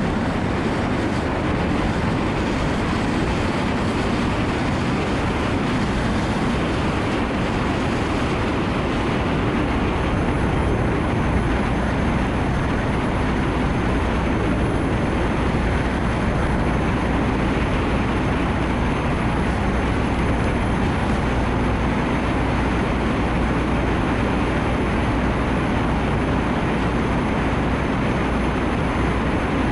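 Steady rush of a Nissan Note e-POWER driving on a rain-soaked road in heavy rain, with tyre and road noise; a low rumble grows stronger about ten seconds in.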